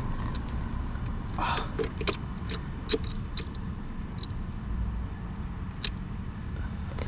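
Scattered sharp clicks and light metallic clinks, about six of them, from hand work fitting an ignition coil pack and its bolt into an engine, over a low steady rumble.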